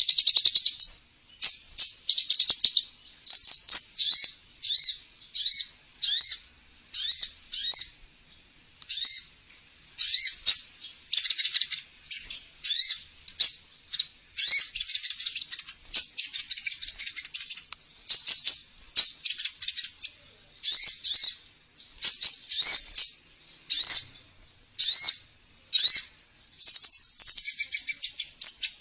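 Sunbird song: short bursts of high, rapid chirps repeated about once a second, with brief pauses between phrases. This is a 'master' lure recording used to get caged sogon, korlap or konin sunbirds to sing.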